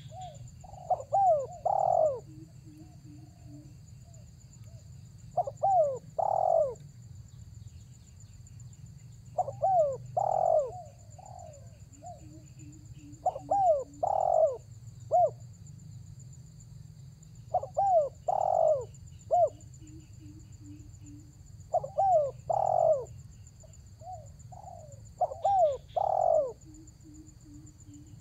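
Spotted dove (tekukur) cooing, repeating its call phrase about every four seconds, with a soft low rolling note between phrases. A faint steady high whine lies behind it.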